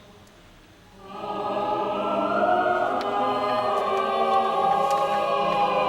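Choir singing a full chord that comes in about a second in and is held and swells without a break.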